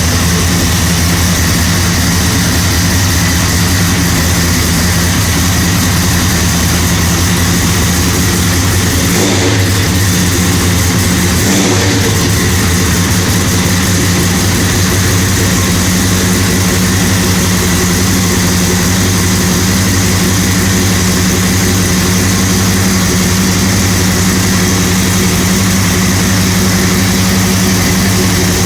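1970 Dodge Charger's 500-cubic-inch big-block V8 (a 440 bored and stroked) idling steadily while still cold from a cold start, with a deep, even exhaust note. Its steady running is briefly broken twice, about nine and twelve seconds in.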